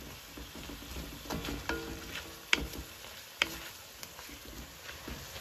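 Chicken thighs with bell peppers and onion sizzling in a stir-fry pan as they are stirred, with a steady frying hiss and scattered utensil clicks, two sharp clinks against the pan about two and a half and three and a half seconds in.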